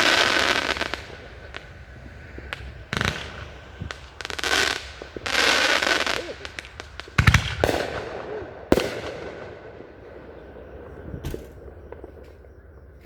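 Fireworks going off in a run of hissing, crackling bursts, with two sharp bangs about seven and nine seconds in. After that they thin out to a few faint pops.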